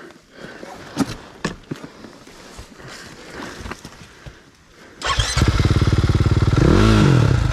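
A few scattered knocks and clicks, then about five seconds in a dirt bike engine starts abruptly, revs up and back down once, and keeps running.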